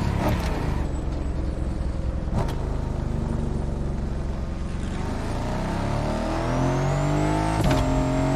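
Aston Martin Vantage engine running hard: the revs drop at the start, hold at a steady low drone, then climb from about five seconds in. A short sharp crack comes near the end, after which the engine holds its pitch.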